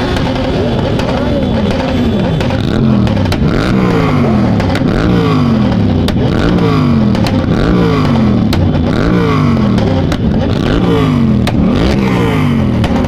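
Many motorcycles in a convoy, their engines revving and passing one after another, the pitch rising and falling over and over.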